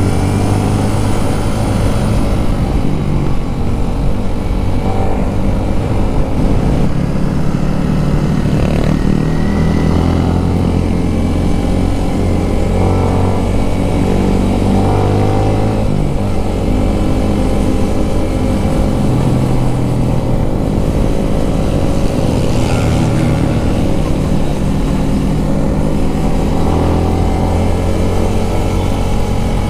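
Yamaha Sniper 155's single-cylinder engine running hard on track, its revs rising and falling through corners and straights.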